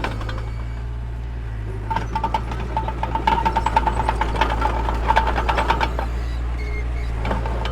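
Heavy construction machine's engine running with a steady low drone. From about two to six seconds in, a stretch of rapid metallic clatter with a squeal rises over it.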